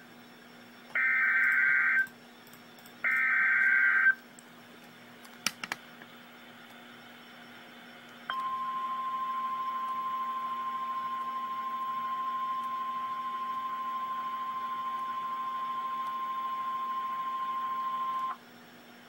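Emergency alert signal on a NOAA Weather Radio tornado warning broadcast. Two one-second bursts of buzzing SAME header data tones come about two seconds apart, then a few faint clicks. Then the steady single-pitch warning alarm tone sounds for about ten seconds and cuts off.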